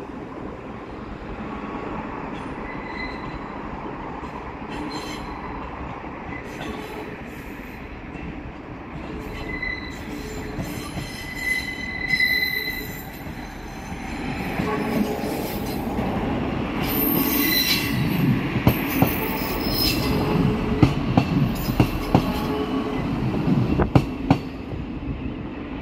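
A Class 158 diesel multiple unit pulling away on curved track, its wheels squealing in thin high tones. The diesel engine rumble grows louder a little past halfway through as the train comes close, with a run of sharp clicks near the end.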